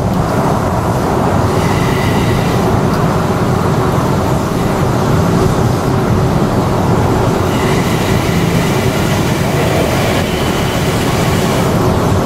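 JR series 285 Sunrise Express sleeper train running at speed on the track alongside, a steady rolling rumble mixed with the road noise of the moving car carrying the camera. A faint high-pitched whine comes in twice.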